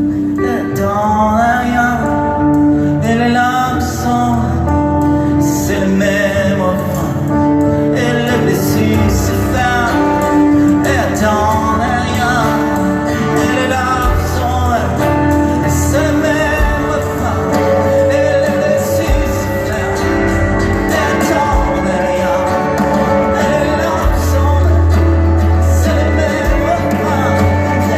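A live band playing a slow song, with a wavering melody line over sustained chords and a deep bass note swelling near the end.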